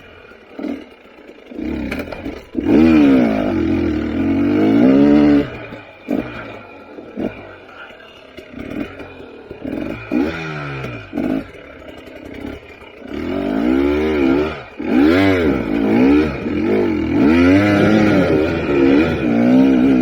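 KTM 300 XC TPI two-stroke single-cylinder dirt bike engine being ridden, its revs rising and falling as the throttle is opened and rolled off. It is loudest in two long pulls, one about three seconds in and another from about thirteen seconds on, with lower running between.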